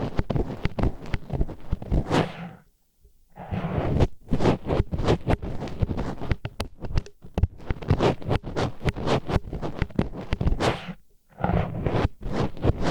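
Disposable wooden chopsticks scraping and rubbing against an ear wall as an ASMR ear pick: a close, dense run of quick scratchy strokes and clicks, stopping briefly about three seconds in and again near the end.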